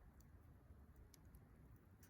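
Near silence with the faint crackle of a campfire: a few sparse small pops and ticks over a low background rumble.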